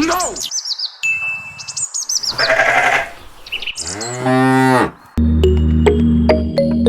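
Cattle mooing: a series of pitched calls, the longest and fullest about four seconds in. Background music with sustained keyboard tones starts a little after five seconds in.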